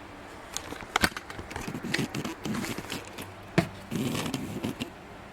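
Handling noise from a camera being moved and repositioned: rubbing and scraping with a few sharp clicks, the loudest about a second in and past three and a half seconds in.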